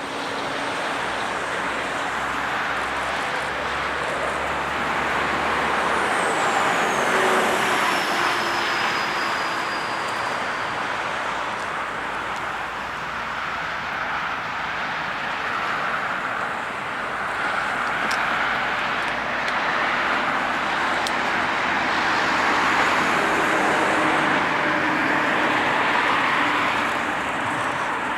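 Steady rolling noise of passing vehicles that swells and eases slowly, with a high squeal sliding down in pitch several seconds in.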